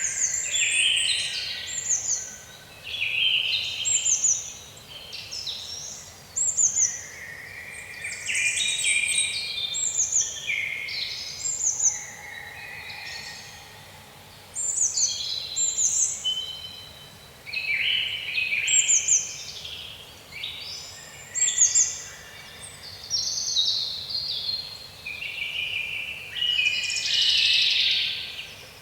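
Songbirds singing and calling, short chirping phrases following one another about once a second and sometimes overlapping.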